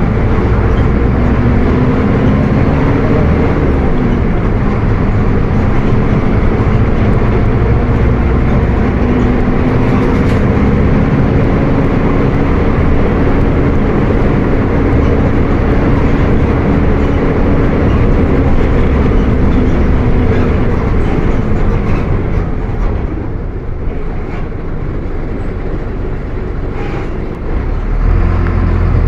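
Diesel engine of a Mercedes-Benz OF 1722M bus running under way. Its note swells and eases with the throttle, drops back about three-quarters through, then picks up again near the end.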